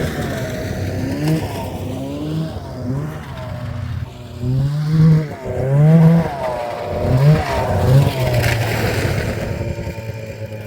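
Snowmobile engine revving up and down repeatedly as it is ridden, the pitch rising and falling with each throttle change.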